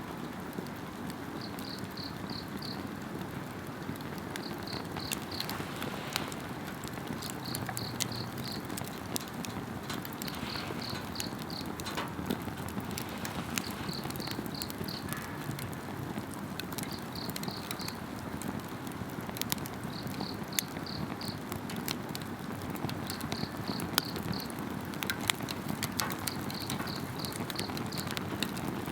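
Campfire wood crackling with scattered sharp pops over a steady hiss, while insects chirp in short high-pitched trains of pulses that repeat about every two seconds.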